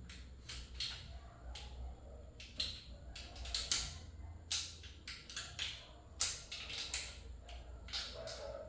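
Irregular sharp metallic clicks and taps, two or three a second, of hand tools and engine parts being handled during engine assembly, over a steady low hum.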